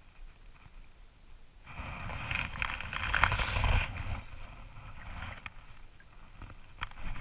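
Handling noise and a splash of water as a small snook is let go over the side of a kayak, loudest between about two and four seconds in, followed by a few light ticks and knocks.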